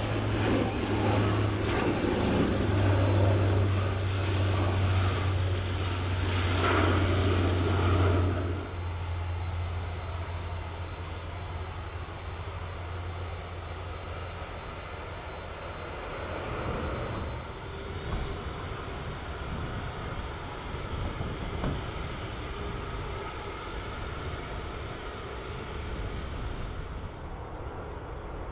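Airliner engines running: loud and rumbling for about eight seconds, then dropping to a quieter steady drone with a thin high whine that lasts almost to the end.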